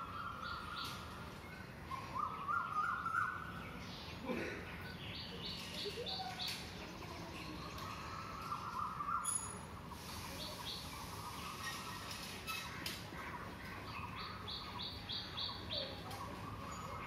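Birds calling: quick runs of five or six short, high notes, repeated several times, over longer, lower stepped calls that come and go.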